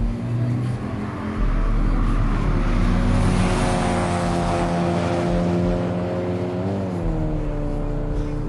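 Turbocharged 2009 Audi A3 engine pulling under load, its pitch climbing steadily. About seven seconds in the pitch dips briefly, then the engine carries on at a lower pitch.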